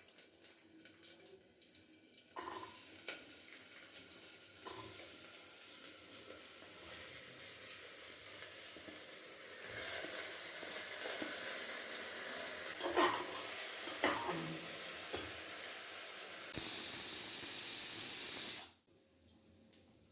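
Water running from a tap, with a few knocks in the middle. Near the end the flow gets much louder for about two seconds, then cuts off suddenly.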